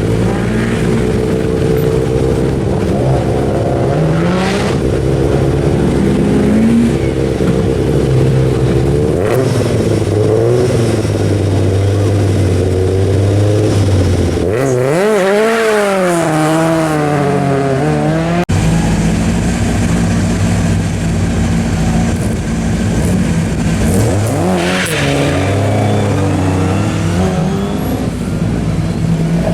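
Rear-wheel-drive rally car engines running hard on a stage, the pitch climbing and dropping again and again with the throttle and gear changes. About halfway through, one car revs sharply up and down, on and off the throttle.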